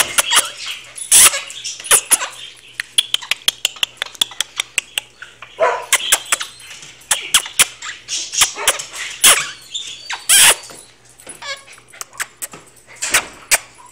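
Pet bird giving many short, sharp squawks and chirps in irregular bursts, some rapid runs of calls and a few louder single squawks.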